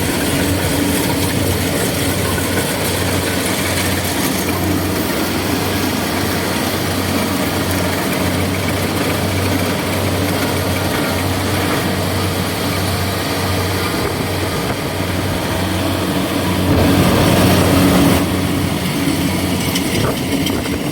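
Kubota DC70G combine harvesters' diesel engines running steadily with a low hum. About seventeen seconds in, the noise swells for a second or so.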